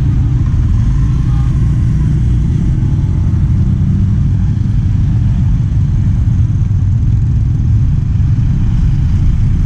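Steady low rumble of a moving motor vehicle, heard from on board as it rides along.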